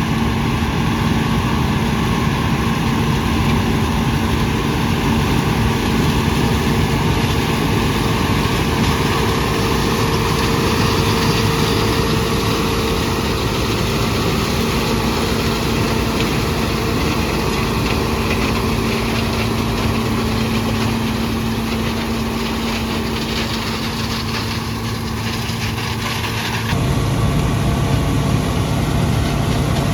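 John Deere 6600 combine running in a corn field: a steady diesel engine drone mixed with the noise of the threshing machinery. About 27 seconds in the sound shifts abruptly to a lower pitch.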